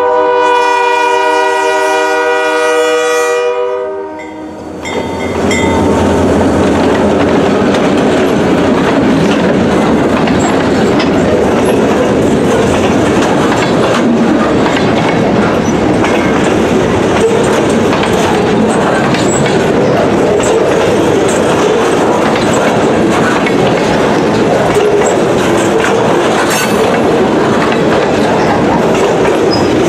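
Diesel locomotive horn sounding one long blast that stops about three and a half seconds in. Then the locomotive passes close and freight cars roll by steadily, wheels clicking over the rail joints.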